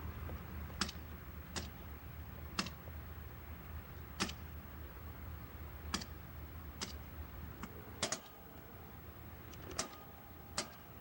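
Sharp single clicks at uneven intervals, roughly one every second, over a steady low rumble.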